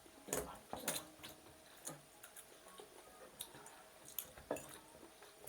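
Eating noises at a meal: scattered light clicks and taps, about a dozen, irregularly spaced.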